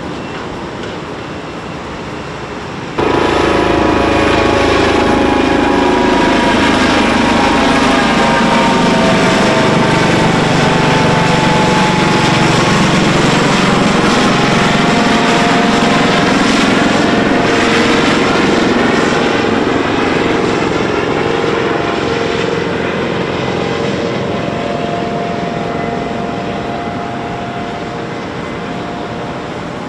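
Helicopter flying past: its engine and rotor noise comes in abruptly about three seconds in and stays loud, with a pitch that slowly sinks and then rises, then fades gradually over the last ten seconds.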